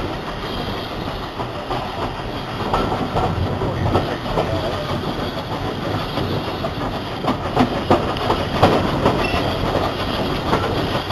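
A train rolling along the rails, its wheels clicking over the rail joints in a steady run of noise, with a few louder clicks a little past the middle.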